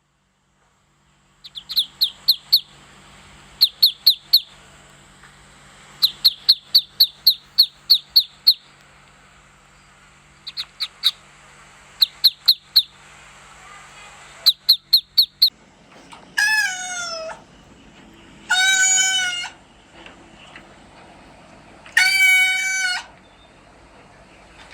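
Animal calls: groups of three to eight quick, high chirps, about six a second. Then three long calls, each about a second, the first sliding down in pitch.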